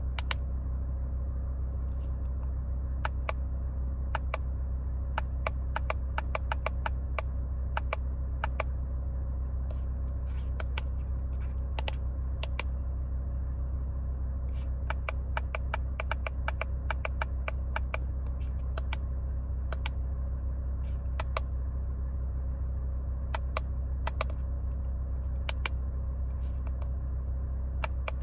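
2003 Mercedes-Benz W211's engine idling with a steady low hum, with scattered irregular clicks and taps over it.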